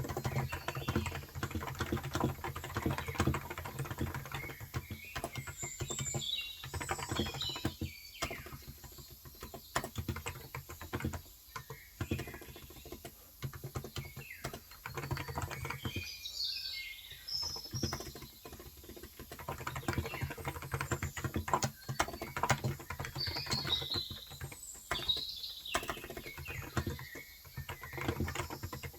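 Typing on a Cox Endeavour electro-capacitive (Topre-style, 35 g) tenkeyless keyboard: a dense, steady patter of keystrokes broken by a few short pauses. Small birds chirp briefly a few times in the background.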